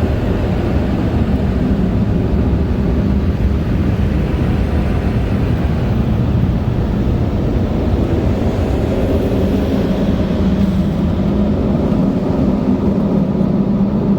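Twin City Blower & Motor car wash dryers blowing air onto the car, heard from inside the car: a loud, steady rush of air with a low steady hum underneath.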